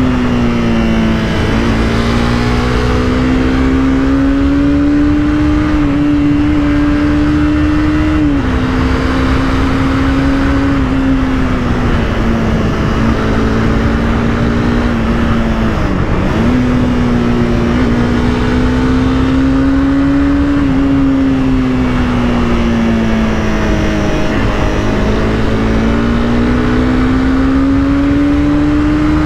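Honda CBR300R's single-cylinder engine running under way at moderate revs, its pitch drifting slowly up and down, with brief sharp drops in pitch near the start, about eight seconds in and about sixteen seconds in, over steady wind rush.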